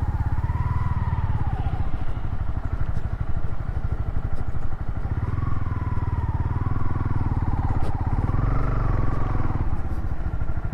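Honda CB300 motorcycle's single-cylinder engine running under load on an off-road trail, its pitch rising and falling with the throttle.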